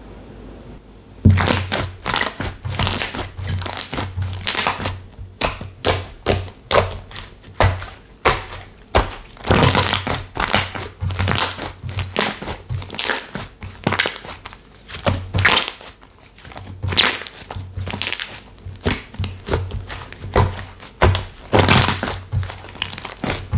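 Slime being squished and pressed by hand, giving dense irregular crackling pops with soft low thuds. It starts about a second in.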